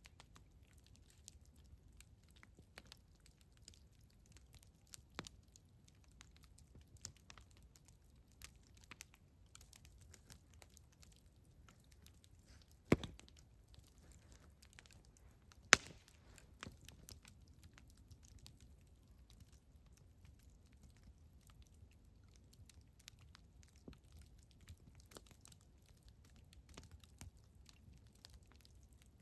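Campfire crackling: scattered small pops and snaps over a low, steady hiss, with two much louder sharp cracks a little before and after the middle.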